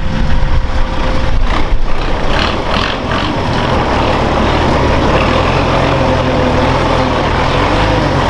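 Heavy off-road military truck engine running. A few irregular knocks come in the first seconds, then it settles into a steady drone.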